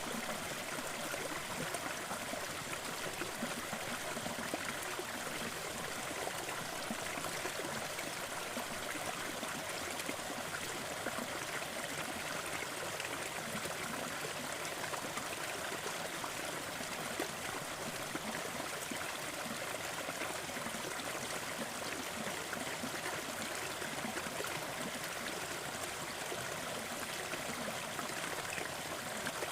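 Small waterfall in a forest stream, water falling and splashing in a steady, even rush.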